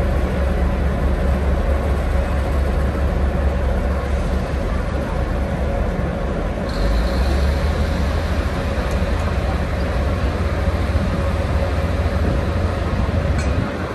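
Diesel railcar running under way, a loud steady low drone of engine and running gear. About seven seconds in the drone changes pitch and a faint high whine joins it; it drops off sharply at the very end.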